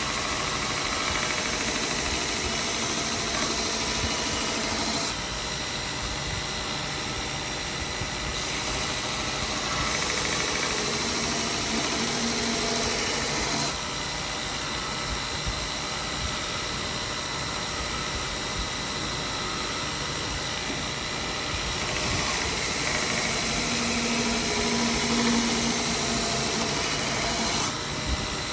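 Belt grinder running with a ceramic abrasive belt, grinding the bevel of an axe bit held in a jig to take out scratches. The steady motor and belt noise changes level abruptly a few times.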